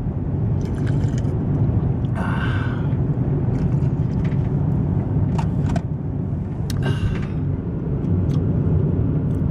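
Steady low road and engine rumble heard inside a moving car, with a few brief faint rustles or clicks on top.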